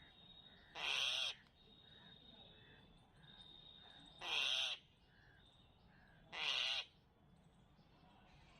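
Crow cawing three times, each harsh call about half a second long and two or three seconds apart, over a faint steady high-pitched tone.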